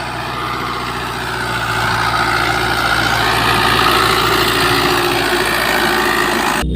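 A motor running steadily, growing slightly louder over the first few seconds.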